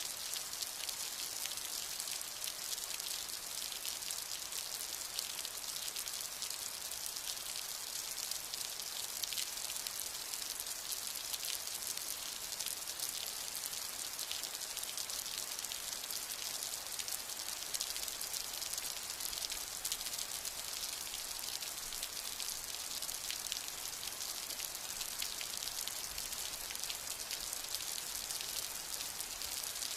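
Steady rain falling, a dense even hiss of drops pattering on surfaces, with no thunder.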